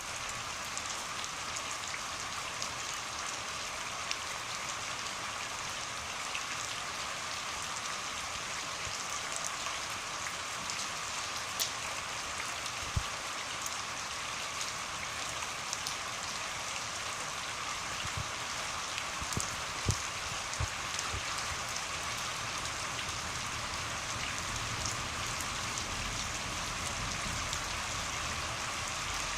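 Steady rainfall hissing on surfaces, with scattered louder drops and drips ticking now and then.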